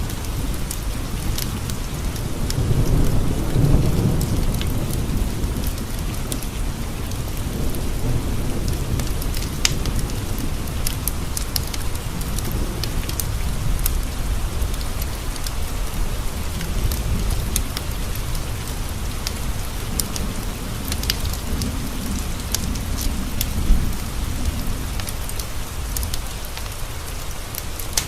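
Steady rain falling on windowpanes, with a low rolling thunder rumble swelling about three seconds in and slowly fading. Scattered sharp crackles from a wood fire in a stone fireplace come and go, with one louder pop late on.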